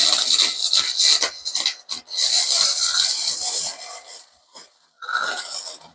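Flux-core wire welder arc crackling on thin 16-gauge aluminized steel exhaust pipe, with a short break about two seconds in, stopping about four seconds in, then a brief burst near the end. The heat is too high for the thin pipe, and the weld burns a hole through it.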